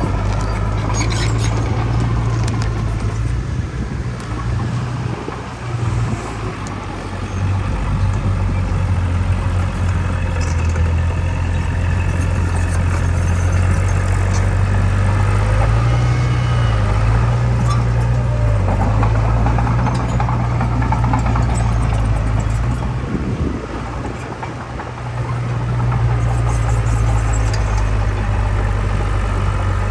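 Heavy diesel earthmoving machinery running under load: a deep, steady engine drone that eases off twice and builds back up, with occasional metallic clanks.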